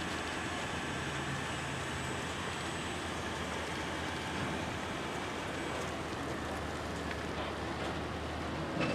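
Steady road noise with a low engine hum from traffic on the move, and a short knock near the end.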